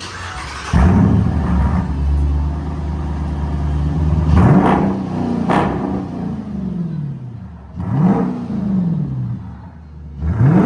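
2015 Dodge Durango R/T's 5.7-litre Hemi V8 exhaust jumps up sharply about a second in and holds a steady fast idle. It is then blipped through several quick revs, each rising and falling, around the middle and near the end.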